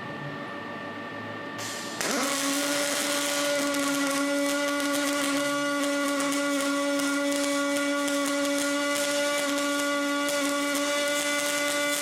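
Electric power tool motor whining steadily; about two seconds in it spins up with a brief rise in pitch and then runs at a constant, loud, high whine.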